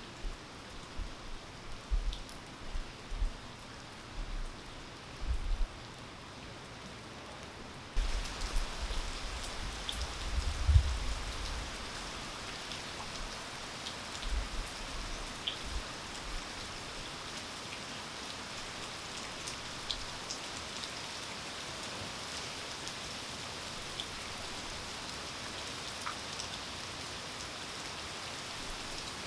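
Steady rain falling, with scattered sharp drip ticks. About eight seconds in it shifts abruptly to a brighter, louder patter, and irregular low thumps come and go through the first half.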